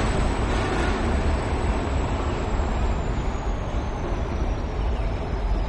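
Steady rumble and rail noise of a Squaw Creek Southern train running through the grade crossing, with a thin high whine that slowly falls in pitch about halfway through.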